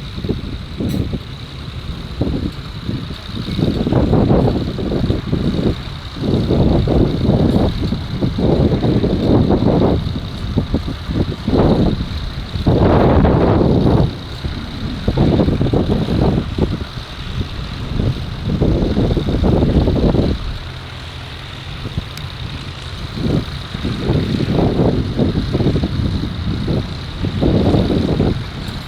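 Tractor engine running, with irregular gusts of wind buffeting the microphone.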